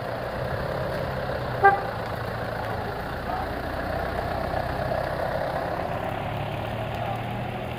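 Off-road 4x4 engines running steadily as a modified jeep rolls slowly past, with a single short car-horn toot a little under two seconds in.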